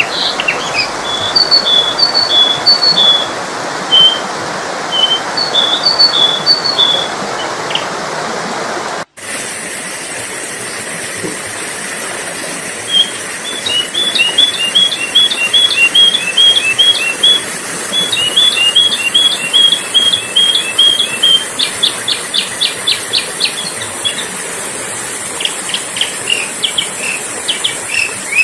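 Sooty-headed bulbul (kutilang) calls from a lure recording: short bright chirps in phrases, then faster rapid runs of notes. There is a brief cut about nine seconds in, after which a steady high hiss sits under the calls.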